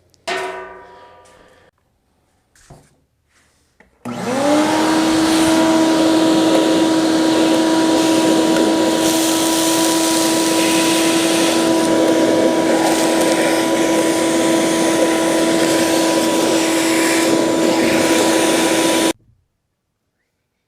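A knock with a short ringing decay, then a few light clicks. About four seconds in, a shop vacuum starts: its motor whine rises quickly to a steady pitch and runs loud for about fifteen seconds, cleaning dirt out of the ATV's airbox, then cuts off suddenly.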